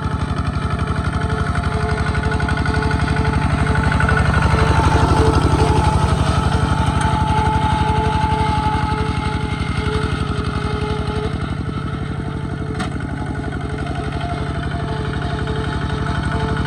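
Small tractor engine running steadily with an even firing rhythm, a little louder about five seconds in and easing off a little near twelve seconds.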